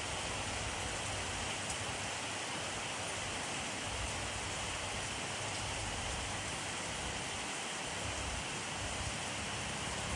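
Steady rainfall pattering on a surface, an even hiss with scattered drop ticks and a faint low rumble underneath.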